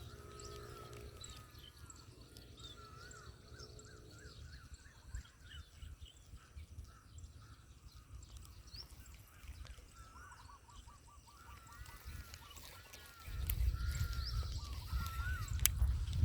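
Birds calling outdoors in repeated short chirping notes, with a quick run of calls about ten seconds in. A low rumble, likely wind or handling noise, comes in about thirteen seconds in.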